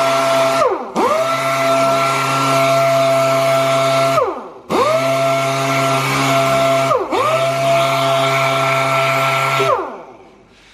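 Orbital sander running with a steady whine while sanding high-build primer with 600-grit paper. It is stopped and restarted several times: the pitch falls as it spins down and rises as it comes back up, about a second in and again near the middle, with a short dip later. It winds down near the end.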